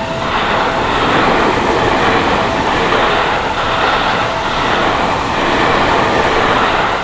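Electric commuter train on the Seibu Ikebukuro Line passing over a level crossing: a loud, steady rush of wheels on rail. The crossing's warning bells are barely heard under it.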